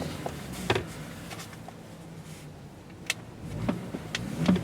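Tank 300 engine heard muffled from inside the cabin, idling with a low hum, then revved up near the end. Two sharp clicks stand out, about a second in and again at about three seconds.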